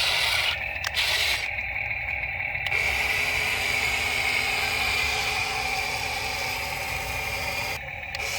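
Small electric motors of an RC toy excavator whirring with a steady high whine, stopping and starting a few times in the first three seconds and cutting out briefly near the end.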